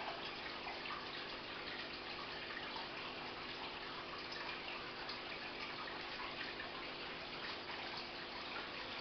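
Aquarium filter water trickling and splashing steadily into the tank, with irregular small drips and a faint steady hum from the pump.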